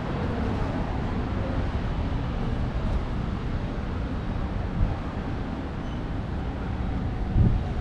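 Steady city street noise, mostly a low rumble of traffic, with a brief knock about five seconds in and another near the end.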